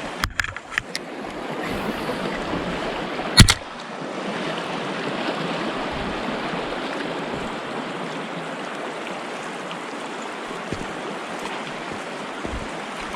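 Steady rush of flowing stream water, with a few light clicks near the start and one sharp click about three and a half seconds in.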